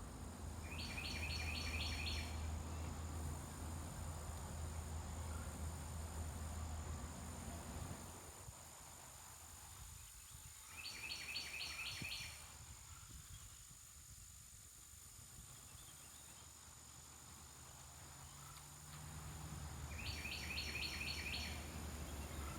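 A songbird sings a short phrase of about six quick, high notes, three times, about ten seconds apart. Under it are a low wind rumble that eases off in the middle and a steady thin high hum.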